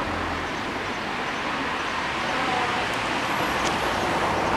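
Steady rushing noise of a passing vehicle, even and without rhythm, with a faint high whine near the end.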